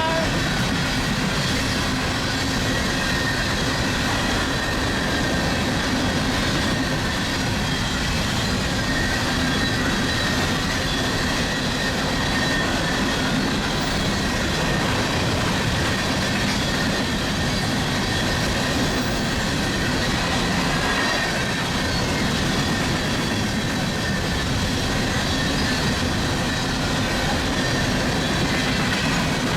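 Empty coal train rolling past, a steady rumble and rattle of the hopper cars on the rails with a faint, steady high squeal.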